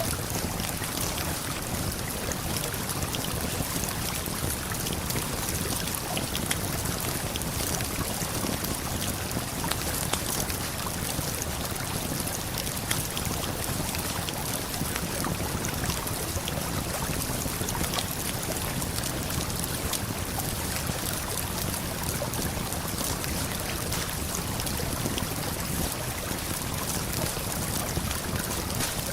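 Steady rushing of a waterfall and flowing river, with frequent small crackles and pops from a campfire scattered over it.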